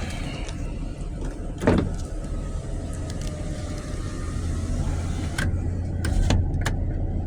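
Steady low rumble of an idling car, with one sharp knock about a second and a half in and a few lighter clicks near the end.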